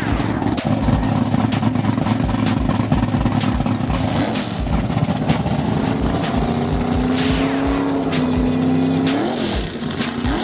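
Drag racing car engine running at the starting line, with a low pulsing about three or four times a second. The pitch climbs a little partway through, and there are two quick revs near the end.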